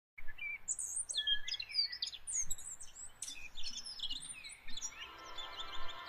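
Many small birds chirping and singing, with quick overlapping calls. About five seconds in, a held musical chord fades in beneath them.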